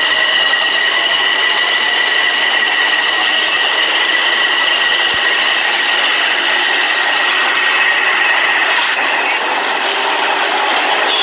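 Subway train running, a loud steady rush of rail noise with a constant high-pitched whine on top, easing off slightly near the end.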